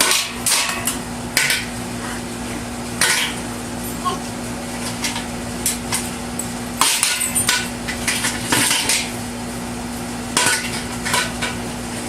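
Toddlers banging hard objects, irregular clusters of knocks and clatters with short pauses between. A steady low hum runs underneath.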